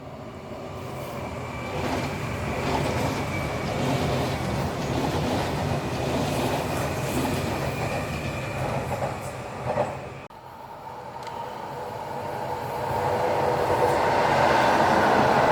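A train running along the rails with the clickety-clack of its wheels. The noise swells over the first couple of seconds, breaks off abruptly about ten seconds in, then builds again to its loudest near the end.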